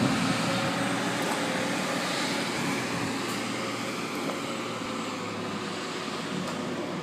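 Mack dump truck's diesel engine running as the truck drives, steady and easing slightly quieter over the few seconds.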